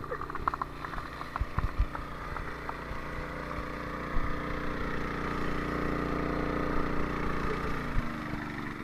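A vehicle engine running steadily, with a few knocks in the first two seconds; it grows a little louder and drops back about eight seconds in.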